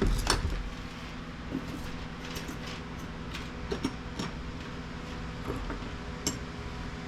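Small scrap parts from a dismantled printer being handled and dropped: a sharp clatter at the start, then scattered light clicks and clinks of small metal and plastic pieces.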